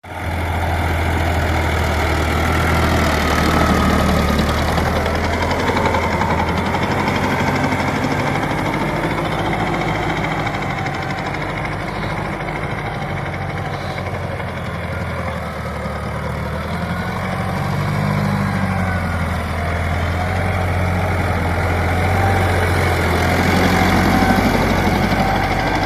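Sonalika DI 50 RX tractor's diesel engine running steadily with a low, continuous hum.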